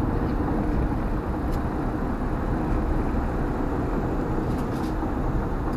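Steady road and tyre noise of a car driving at highway speed, heard from inside the cabin.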